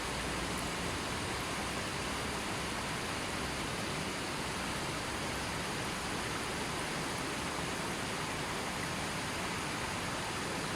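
River water flowing steadily, an even hiss of running water with no other sounds.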